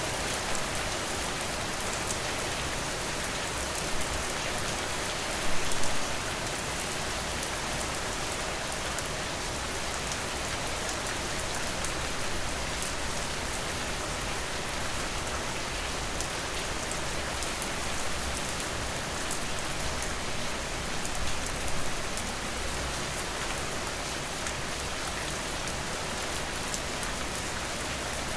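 Steady rain falling, an even hiss of drops, with brief louder bursts about five seconds in and again around twenty-one seconds in.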